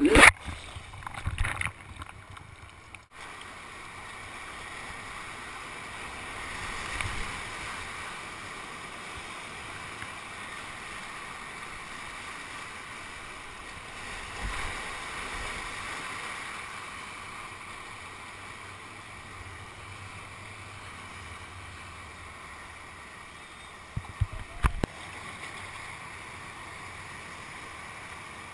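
Steady rush of whitewater on a river heard from a kayak, with a few sharp knocks near the end.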